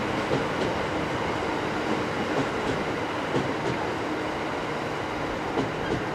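Train cars rolling along the track, a steady rumble with wheels clicking irregularly over rail joints.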